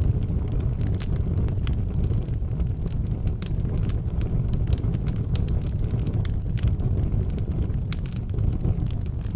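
Wood fire burning in an outdoor fireplace: a steady low roar of flames with frequent sharp crackles and pops scattered irregularly.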